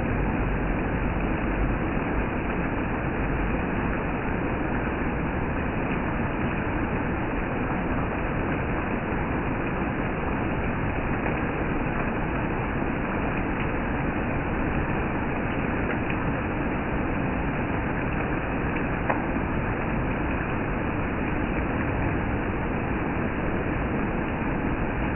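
Steady rainfall: an even, unbroken hiss of rain, with an occasional faint tap.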